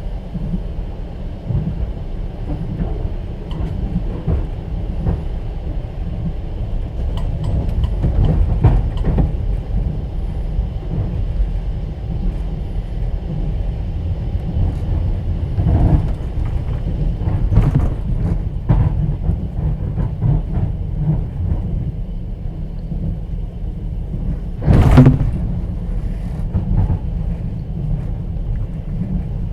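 Train wheels clattering over the rails heard from inside a passenger sleeper carriage: a steady low rumble with scattered knocks of the wheels over rail joints. Late on, a single loud bang stands out above the rest.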